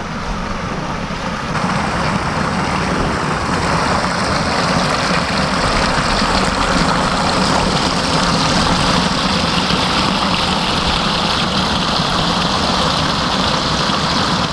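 Suzuki DRZ400's single-cylinder four-stroke engine running as the bike is ridden, with wind rush over the microphone; it grows louder over the first few seconds, then holds steady.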